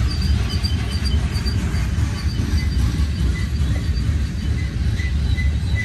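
Loaded coal hopper cars of a Union Pacific coal train rolling past with a steady heavy rumble of wheels on rail. Faint high wheel squeals come and go over it.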